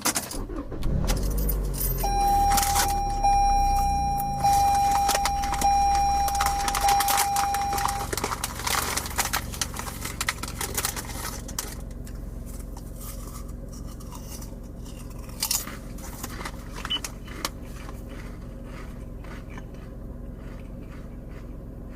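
Keys jangling with scraping and knocking handling noises, and a steady electronic tone sounding for about six seconds from about two seconds in. After about ten seconds the noises thin out to occasional light clicks over a low hum.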